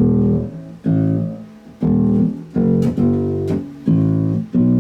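Electric bass guitar played through an amplifier: about six single plucked notes, each ringing and then dying away before the next.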